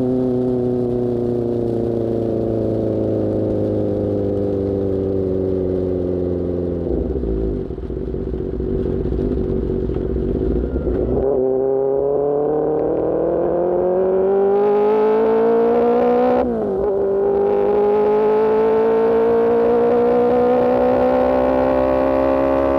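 Motorcycle engine breathing through an Austin Racing GP1R exhaust. The revs fall away as the bike slows, settle into a low rumble, then climb hard under acceleration, with a quick upshift about sixteen seconds in before the revs rise again.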